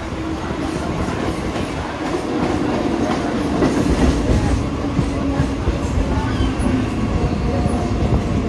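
Mumbai suburban local train, an electric multiple unit, running on the track with a continuous rumble and clatter of its wheels. It swells to its loudest about four seconds in.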